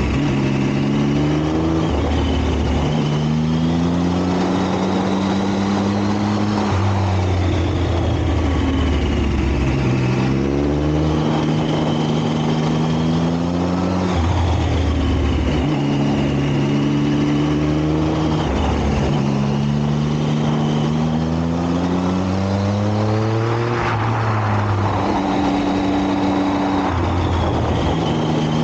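Motorcycle engine running at speed, its note repeatedly rising as it pulls and dropping back with gear changes and throttle, over a steady rushing noise.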